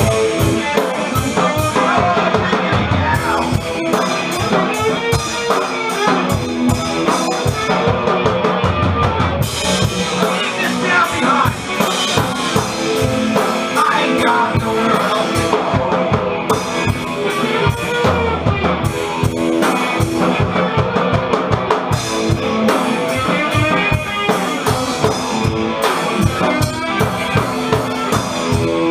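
Band music: a drum kit keeps a steady beat of kick and snare under guitar, with notes that bend.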